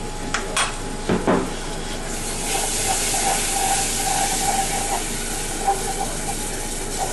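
A few knocks of a utensil against the pan, then peanut satay sauce sizzling loudly in the hot pan from about two and a half seconds in.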